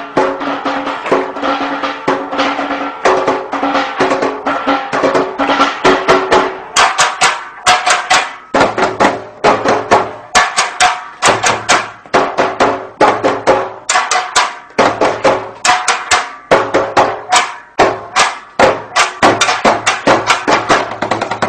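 Fast percussion rhythm beaten on cooking pots and pans used as drums: many sharp strikes a second in a steady beat, with a few held low tones underneath in places.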